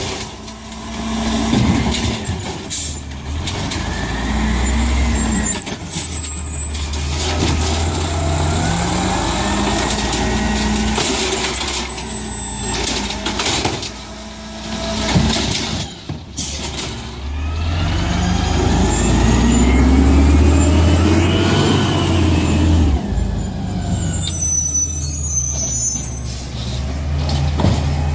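Garbage truck engines running and revving, their pitch rising and falling, with air brake hisses and short high-pitched brake squeals. The sound changes abruptly several times.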